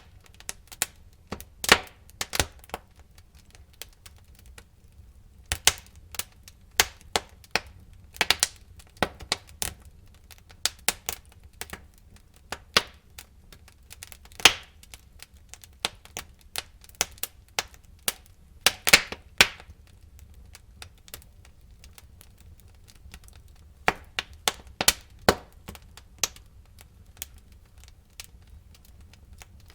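Burning wood in a fireplace crackling and popping: irregular sharp snaps, some single and some in quick clusters, over a low steady rumble of the fire.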